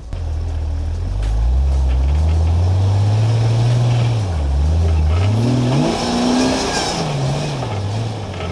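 Jeep TJ engine revving hard under load up a steep dirt climb, its pitch rising and falling several times, highest a little past the middle.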